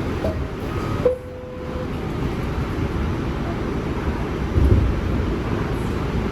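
New York City subway car running along the track, a steady rumble and rattle heard from inside the car, with a brief steady squeal-like tone about a second in and a low thud near the end.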